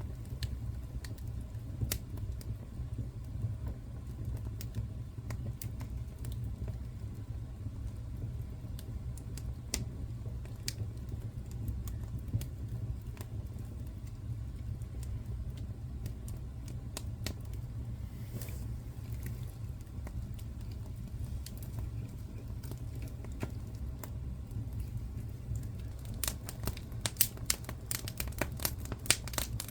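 Wood fire burning with a steady low rumble and scattered crackles and pops, breaking into a quick run of louder crackling near the end.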